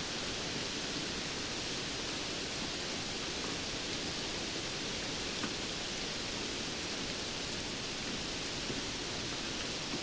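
Steady rainfall, a dense even hiss with a few faint drop ticks.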